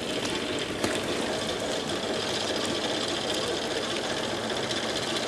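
Railway locomotive running at a standstill: a steady, fast, even mechanical clatter with one sharp click about a second in.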